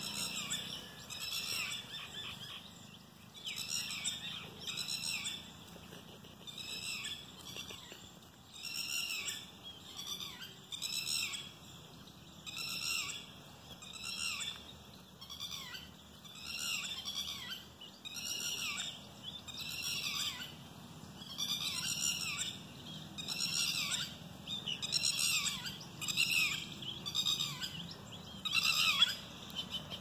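A bird calling over and over: a short, high call repeated steadily about once a second.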